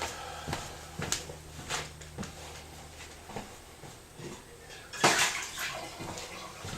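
Standing water running and splashing out of a washing machine's drain, with a few clinks and a louder rush about five seconds in.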